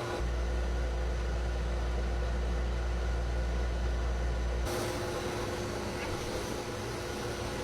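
Pet grooming blow dryer running steadily with a constant hum and airy hiss. A deep rumble under it cuts out about two-thirds of the way in, leaving a brighter hiss.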